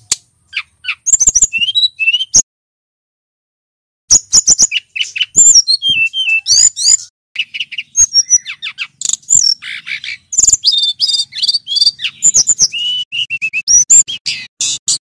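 Male brown-chested jungle flycatcher singing a loud, fast, varied song of high chirps and falling whistled slurs. It breaks off about two and a half seconds in, then resumes about four seconds in and runs on densely.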